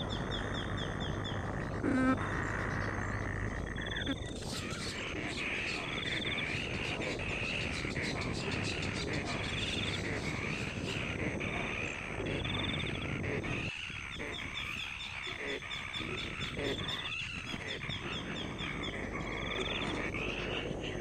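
Birds calling outdoors: short high trills repeating every second or two over a continuous wavering chorus.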